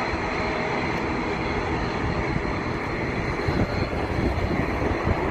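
Boeing 737 freighter's jet engines during its landing, a steady rushing noise with a faint whine.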